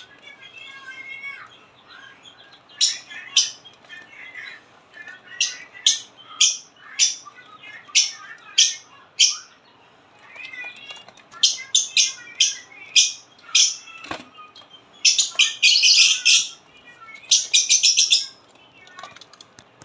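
Caged budgerigars and lovebirds calling: loud, shrill chirps repeated about twice a second, over softer warbling chatter, rising to dense bursts of calls near the end. A single knock comes about two-thirds of the way through.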